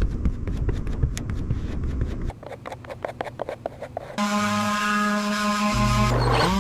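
Scraping and rubbing on metal with many small clicks during rust removal. About four seconds in, a small electric power tool starts and runs with a steady hum.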